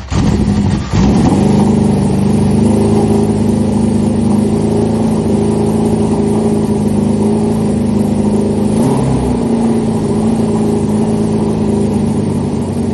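A multi-carburettor motorcycle engine running. Its revs climb about a second in, then it runs at a steady idle with a short rise in revs around nine seconds in.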